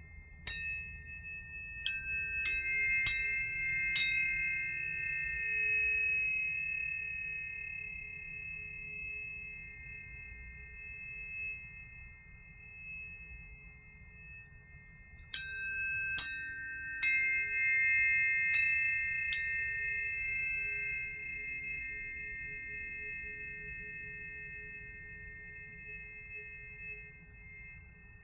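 Planetary tuning forks struck one after another at several different pitches, each strike giving a brief bright clang and then a pure tone that rings on and slowly fades. The strikes come in two clusters, about five at the start and about six more some fifteen seconds in, with long stretches of overlapping ringing between them.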